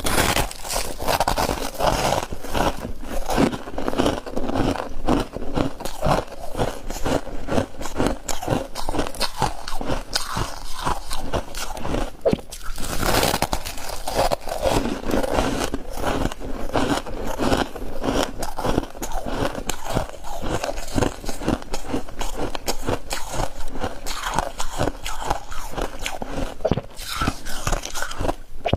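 A person biting and chewing crunchy chunks of ice: a continuous run of dense crunching, with one short lull about twelve seconds in.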